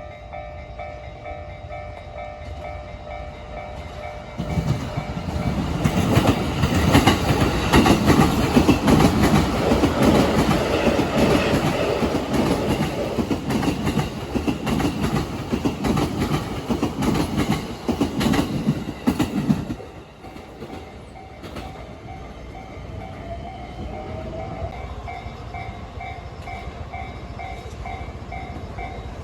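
A train, plausibly a freight train, passes over the rail joints at a level crossing. From about four seconds in, a loud, dense run of clattering wheel-on-joint impacts lasts some fifteen seconds, then drops away suddenly around twenty seconds in. The crossing bell's steady repeating ring is heard before the train arrives and again after it has passed.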